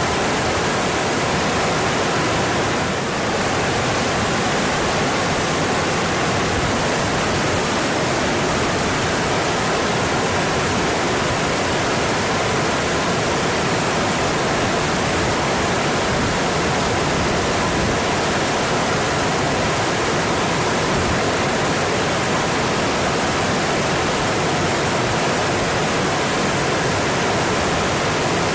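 Mountain stream rushing steadily over its rocky bed, a constant even wash of water noise.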